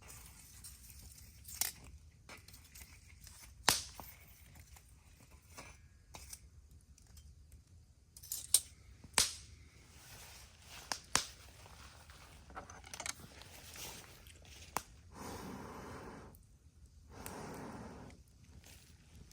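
Wood campfire crackling, with sharp pops from the burning wood every second or two, then two longer rushing, rustling sounds near the end.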